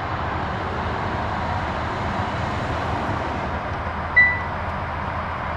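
The 2020 Hyundai Sonata Limited's turbocharged four-cylinder engine idles steadily just after a push-button start, heard from inside the cabin. About four seconds in, one short electronic beep from the car stands out.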